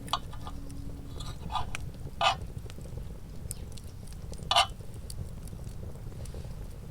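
Someone eating: a few short clicks and crunches of a fork and chewing, the loudest about two-thirds of the way through, over a steady low rumble.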